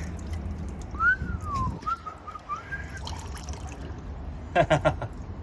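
A whistle that glides up and back down, followed by a few wavering whistled notes, over a steady low rumble; a short vocal sound comes near the end.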